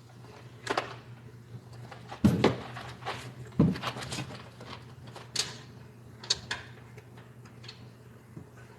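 Scattered clunks, taps and rattles of hand work on a car's back seat as it is being unbolted, with two heavier thuds about two and three and a half seconds in, over a steady low hum.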